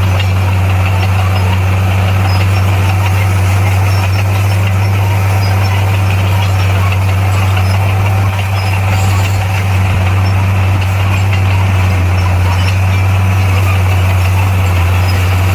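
Heavy-equipment diesel engine running steadily, a deep, constant drone.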